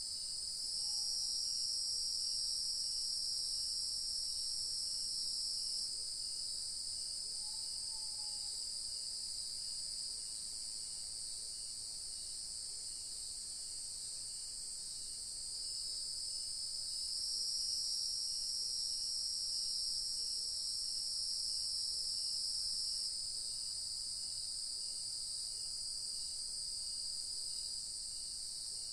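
Dense, continuous chorus of crickets and other insects at dusk, with a high, even shrilling that swells louder twice. Underneath runs a fainter steady chirp of about two a second.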